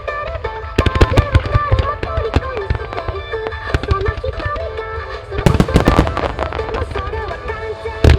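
Fireworks of a music starmine bursting in quick clusters of sharp cracks and booms, about a second in and again a little past halfway, over a pop song with a singing voice played through loudspeakers.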